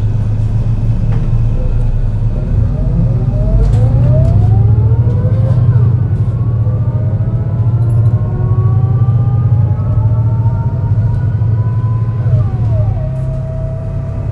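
MAN NL202 CNG bus engine pulling hard uphill with a low rumble, running rough with a bad misfire. The ZF Ecomat automatic gearbox whines in a rising pitch through each gear, and its pitch drops sharply at two upshifts, about 6 s in and about 12.5 s in.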